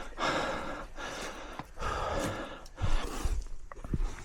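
A runner breathing hard after running, with heavy rushing breaths in and out about once a second, then some dull low thumps in the second half.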